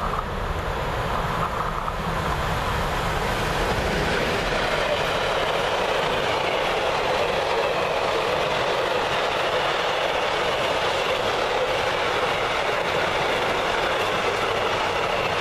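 A train passing close by on an electrified main line: the steady rush of wheels on rail, growing louder over the first few seconds and then holding steady as the cars go by.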